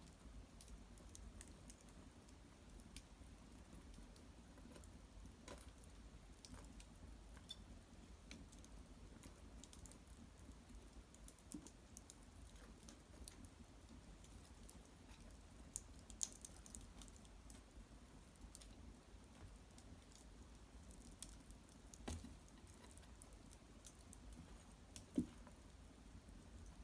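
Small wood fire of Japanese cedar branches and bark crackling faintly in an irori hearth. Sparse, irregular sharp ticks and pops run throughout, with a couple of louder pops near the end.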